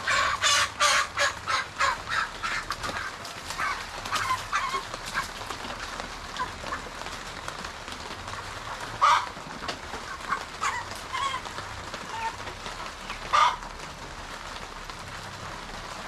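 Chickens squawking and clucking: a quick run of calls in the first few seconds, then scattered calls, with two louder squawks about nine and thirteen seconds in.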